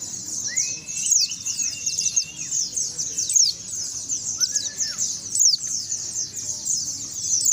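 Many white-eyes (pleci) singing at once in a continuous high, rapid twittering of quick downward-sweeping notes. A few lower, longer whistled notes cut in, the first about half a second in.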